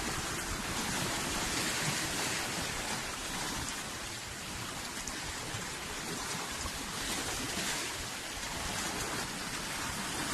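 Steady rushing hiss of wind and sea water, with no distinct events.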